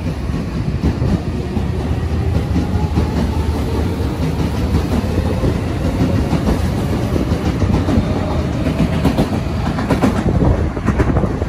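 Tobu 70000-series electric train pulling away and accelerating, with its traction motors whining up in pitch over the running noise of the train. About nine seconds in comes a run of sharp clacks as the wheels pass over rail joints.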